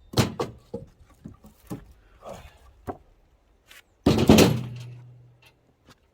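Cut firewood sticks knocking together as they are handled and moved, a string of wooden knocks, with one heavy thud about four seconds in that leaves a low ring fading away.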